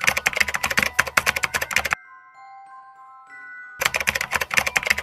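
Rapid computer-keyboard typing clicks in a dense run that stops about two seconds in and starts again near the end. In the gap, quiet background music with a few held bell-like notes.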